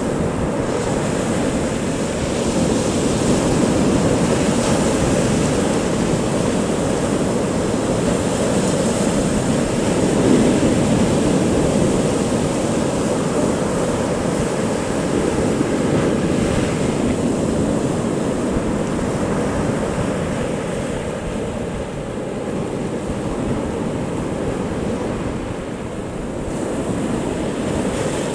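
Big sea waves breaking and washing on a beach, a continuous surging roar that swells and eases over several seconds, with wind buffeting the microphone.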